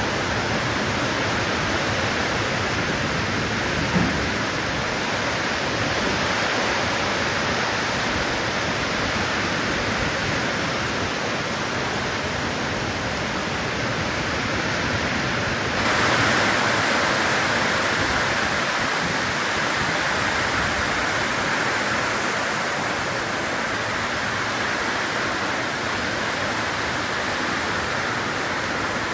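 Heavy rain pouring steadily, growing louder about halfway through. A single sharp tap about four seconds in.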